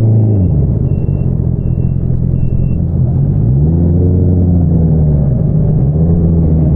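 2022 Honda CBR650R's inline-four engine through an Akrapovič single-outlet exhaust: the revs drop off early as the throttle closes, run low for a few seconds, then rise again and hold steady at light throttle.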